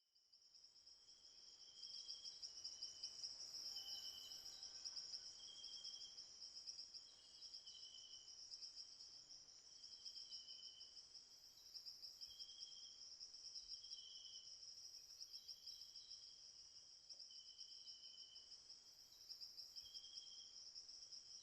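Insect chorus: a steady, high, pulsing trill, with shorter, lower chirps repeating about once a second. It fades in over the first couple of seconds.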